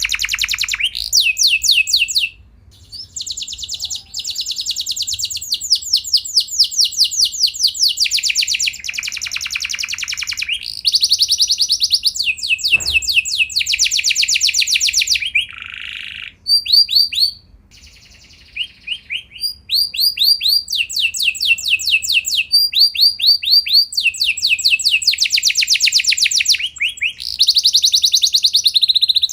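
Domestic canary singing a long song of rapid rolling trills, one repeated-note phrase running into the next, with a few short pauses.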